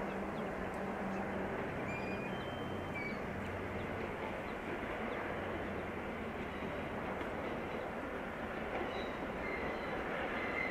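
Oigawa Railway passenger train running on the line: a steady rumble of wheels on rail, with a faint high whine near the end.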